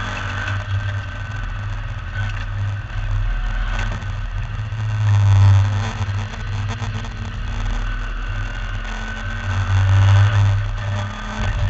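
MGB V8 race car's V8 engine running hard under racing load, heard from on board, with its low rumble swelling louder twice, about five seconds in and again about ten seconds in.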